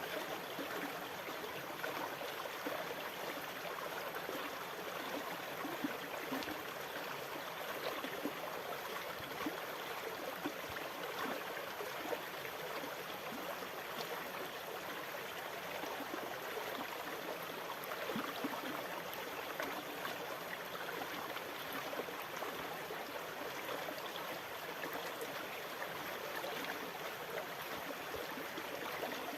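Steady rushing water with fine bubbling and trickling crackle, holding an even level without the rise and fall of breaking waves.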